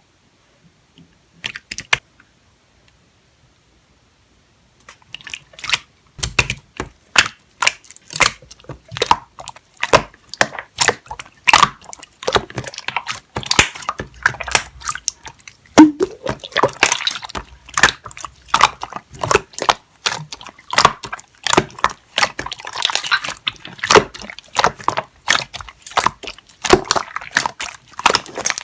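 Clear slime being squeezed and played with by hand, making dense, irregular sticky clicks and pops, several a second. The first few seconds are nearly silent apart from a short crackle about two seconds in.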